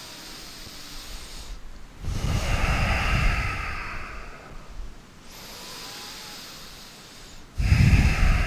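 Deep breathing close to the microphone: one long breath lasting about three seconds, then a shorter, louder, forceful breath near the end that buffets the mic.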